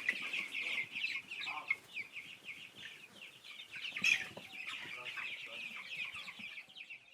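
A flock of meat chickens in a rearing pen, many birds calling at once in dense, overlapping high chirps, with one louder call about four seconds in.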